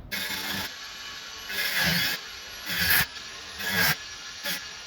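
Hand-sawing strokes cutting into a wall to open it up, a rasping stroke about once a second.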